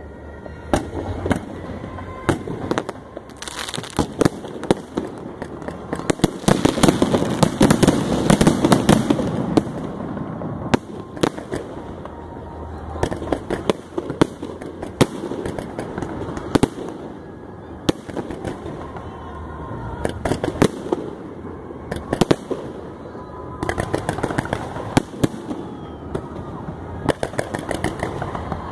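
Fireworks display: shells bursting overhead with many sharp bangs and crackles, in a dense volley about six to ten seconds in and another near twenty-four seconds.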